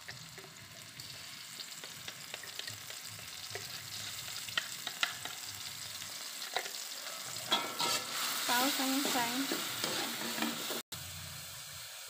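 Ground chili, shallot and garlic paste sizzling in hot oil in a wok while it is stirred with a metal spatula, with scattered scraping clicks. For a couple of seconds near the end it gets louder, with a squeaky pitched sound over the sizzle.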